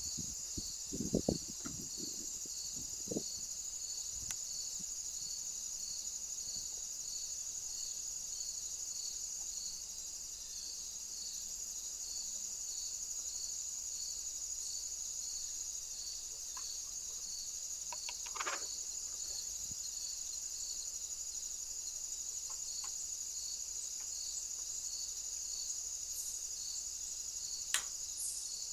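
Steady chorus of crickets, with evenly spaced chirps a little under a second apart over a continuous high trill. A few low knocks come in the first three seconds, and a short call about two-thirds of the way through.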